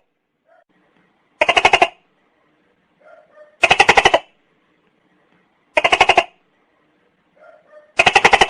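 Tokay gecko calling: four short bursts about two seconds apart, each a fast train of about eight clicking pulses.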